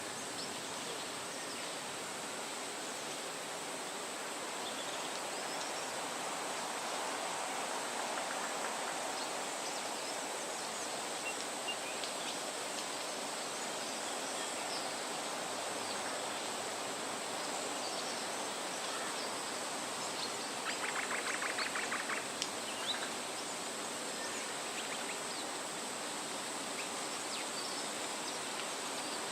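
Wind rustling through leafy trees, a steady hiss with a constant high whine above it and faint scattered bird chirps. About two-thirds of the way through comes a fast ticking trill lasting about a second and a half.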